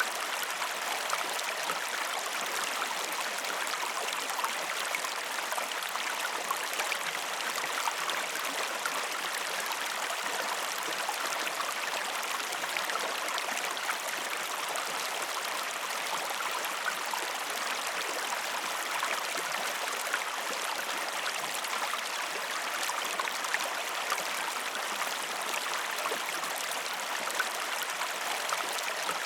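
River water flowing: a steady, even rush with faint trickles and small drips.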